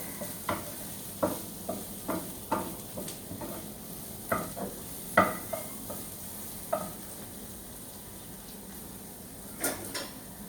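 Food frying in a pan with a steady sizzle, while a metal utensil clacks and scrapes against the pan every half second or so. The clacks thin out after about seven seconds, with two more near the end.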